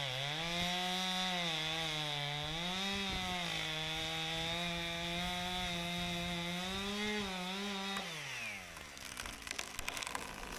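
Husqvarna 455 Rancher two-stroke chainsaw running at high revs, cutting into a large oak, its pitch dipping and recovering as the chain bogs under load. About eight seconds in the throttle is released and the engine winds down, followed by scattered crackles.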